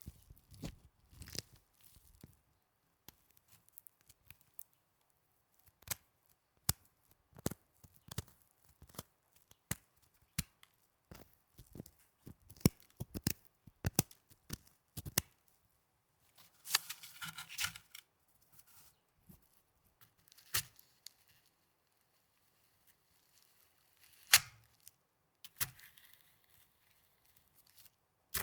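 Snow handled close to the microphone: scattered crisp crunches and crackles with quiet gaps between them. A longer crunching rustle comes a little past halfway, and a single sharp crunch a few seconds later.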